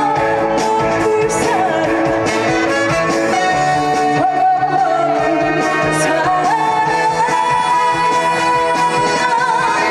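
Live trot song: a woman singing over band backing music, holding long notes.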